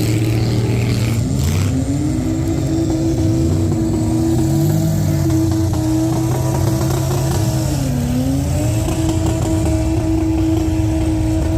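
Mud truck's engine running at high revs: it climbs in the first couple of seconds and is held high, drops briefly about eight seconds in, then climbs back and holds.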